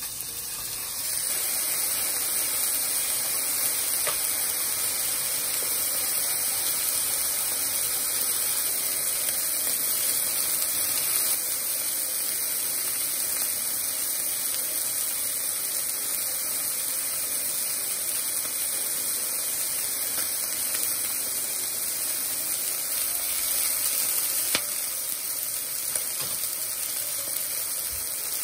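Bite-size chicken thigh pieces sizzling in hot oil in a frying pan as they brown, a steady hiss that builds up in the first second. A few light taps of chopsticks turning the meat.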